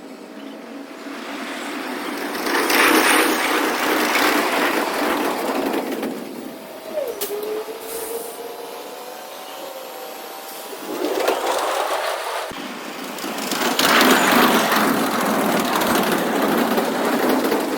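Train running on rails, its wheel and rail noise swelling twice, with faint steady tones and a brief falling tone about seven seconds in.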